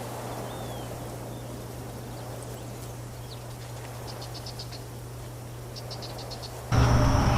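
Quiet outdoor ambience with a steady low hum. A bird gives two quick series of high chirps, about four and six seconds in. Just before the end the sound jumps suddenly to a much louder noise with a steady high whine.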